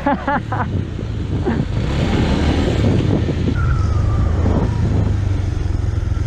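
Motorcycle engine running as the bike rides off, getting louder over the first second or two and then holding steady, with wind rush on the microphone. A brief thin tone sounds about four seconds in.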